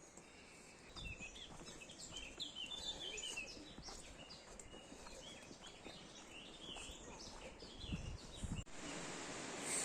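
Forest songbirds calling and singing, many short chirps and whistles overlapping. A few low thumps near the end, then the sound switches abruptly to an even, steady rushing noise.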